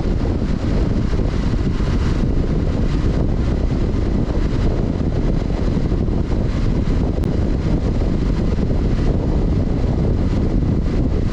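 Honda CB500X's 471 cc parallel-twin engine running steadily while riding, mixed with heavy wind noise on the microphone.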